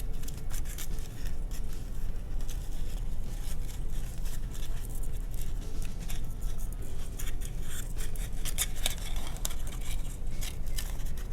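Soft rustling, scraping and small taps from a felt strip being handled and tied around a cardboard egg carton, many short faint scratchy sounds, over a steady low hum.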